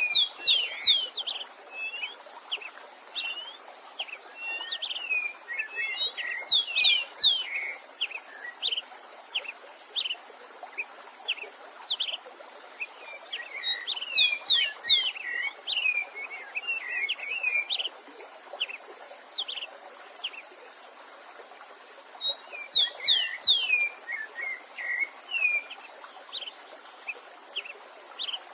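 A songbird repeats the same song phrase four times, roughly every seven to eight seconds: quick high chirps and steeply falling whistles. A faint steady hiss of running stream water sits underneath.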